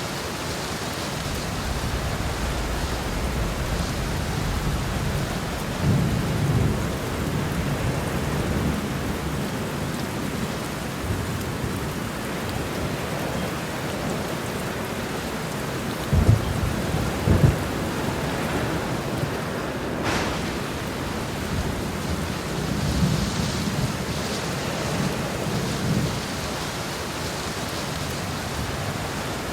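Heavy rain pouring steadily in a thunderstorm, with thunder rolling low several times and two sharp claps a little past the middle.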